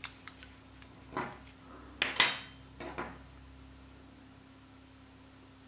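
A few light metallic clinks and taps of small hand tools against metal parts, about four in the first three seconds with the loudest about two seconds in, then only a faint steady hum.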